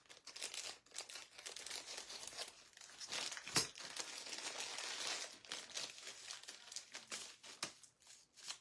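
Crinkling and rustling as small craft pieces are handled and sorted through by hand, with one sharper click about three and a half seconds in.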